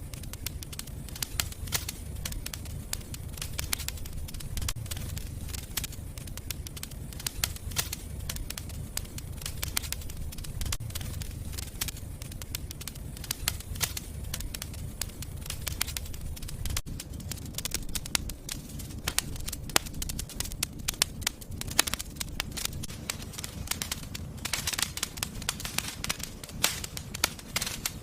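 Wood fire burning in a fireplace: a steady low rumble of flame with frequent irregular crackles and pops, which come thicker toward the end.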